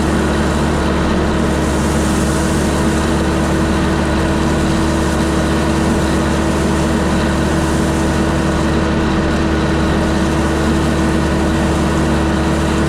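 Kubota LX4020 compact tractor's diesel engine running steadily at a constant speed.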